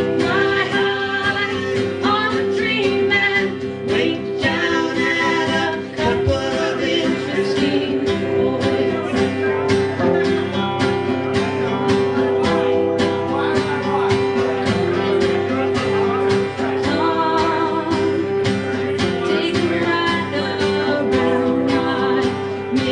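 A guitar strummed steadily while a voice sings a country-folk song, performed live.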